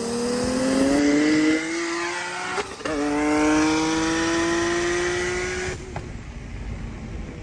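Turbocharged Nissan 370Z's V6 accelerating hard: the engine note climbs steadily, breaks for a quick upshift about two and a half seconds in, climbs again through the next gear, and then the throttle is lifted about six seconds in.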